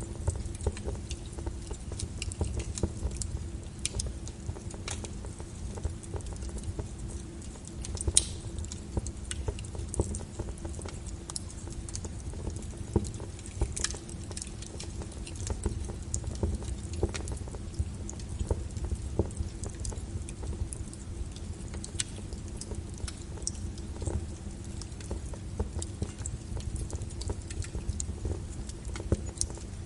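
Burning firewood crackling in a fireplace: irregular sharp pops and snaps over a steady low rumble. One louder pop comes about eight seconds in.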